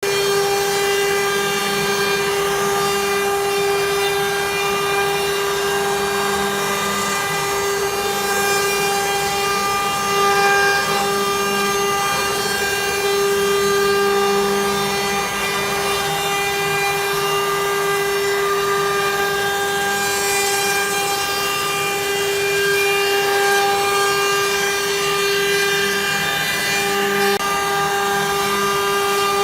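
CNC router spindle carving wood, running with a steady high whine, with occasional swells of cutting noise as the bit works the wood.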